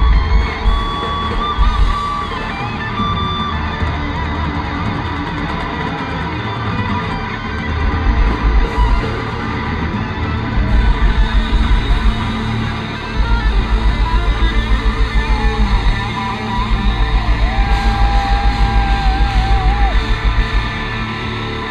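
Live hard rock band playing: distorted electric guitars with held, bending lead notes over bass and drums, and fast, even kick-drum runs in the second half.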